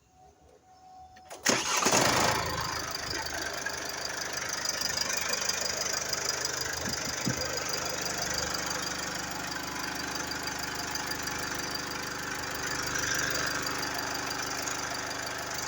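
Mercedes-Benz GLE 250d's four-cylinder diesel engine starting about a second and a half in, flaring up briefly, then settling into a steady idle.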